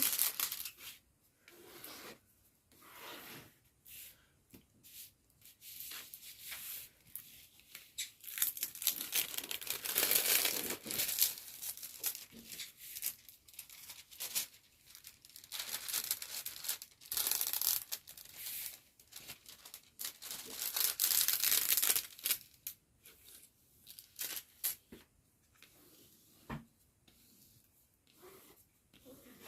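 Irregular rustling and crinkling of plastic and paper packaging from a diamond painting kit being handled, in bursts, with the busiest handling in the middle and thinning out near the end.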